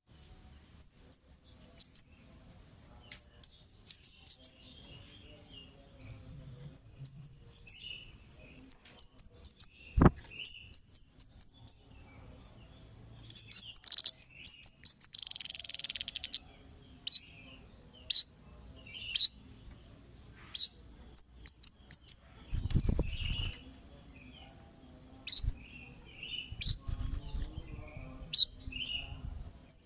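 Cit kemade songbird calling: high, thin chirps, each dropping quickly in pitch, given in quick runs of three to five, then more singly, with a short buzzy trill about halfway through. A sharp click comes about a third of the way in, and low rumbling noise runs under the later calls.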